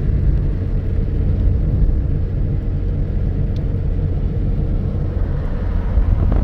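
A motor vehicle's engine running with a steady low rumble, as heard while driving.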